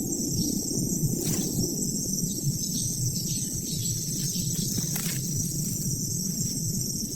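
Steady, high-pitched chorus of insects chirring over a constant low rumble, with two brief clicks about a second in and again near five seconds.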